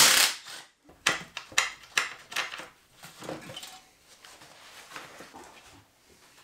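Metal tools and screws clinking and clattering on a diesel engine while the intake manifold screws are taken out. A loud clink at the start and several more over the next two and a half seconds, then quieter handling.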